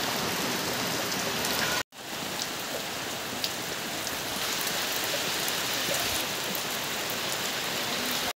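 Heavy rain falling steadily, with a brief break about two seconds in.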